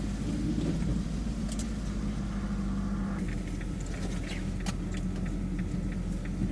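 Steady low hum of a car's engine and running noise heard from inside the cabin, with scattered light clicks and ticks from about halfway through.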